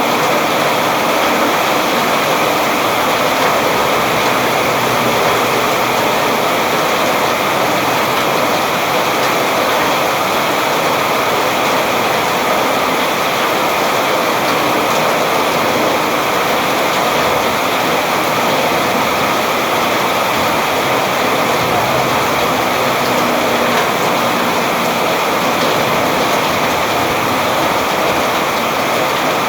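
Heavy, steady rain: a dense, even hiss of falling water with no single drops standing out.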